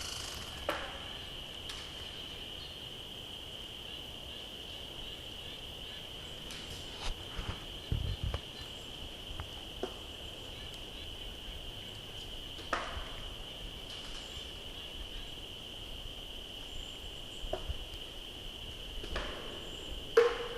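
Crickets chirping in a steady high chorus, with a handful of faint sharp clicks and knocks scattered through it and a low thud about eight seconds in.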